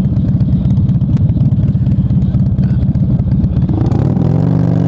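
Motorcycle engine with a loud, choppy low rumble, the revs picking up and rising smoothly near the end.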